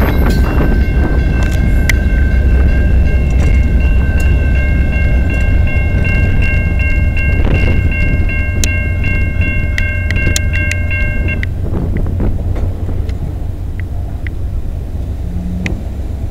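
VIA Rail passenger train rolling past at close range: a heavy rumble with a steady high chord of several squealing tones that cuts off abruptly about eleven seconds in. Scattered clicks of wheels over the rails come before the train fades as it moves away.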